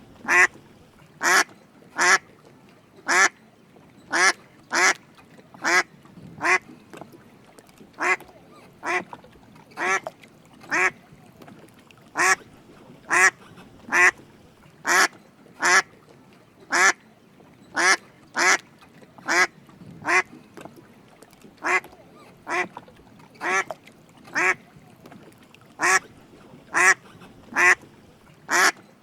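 Drake mallard duck quacking: short calls repeated about once a second.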